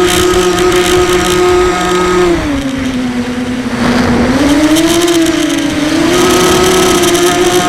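Brushless motors of a 250 mini quadcopter, Sunnysky 2204s, whining in flight. The pitch drops about two seconds in as the throttle eases, climbs back, dips once more and returns to a steady pitch. The rough background noise is typical of a shelled-out motor bearing.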